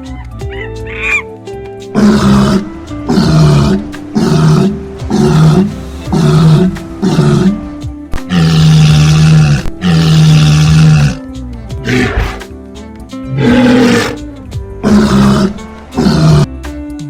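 A large animal roaring in a series of calls: six short ones, then two longer ones in the middle, then a few more short ones, over background music.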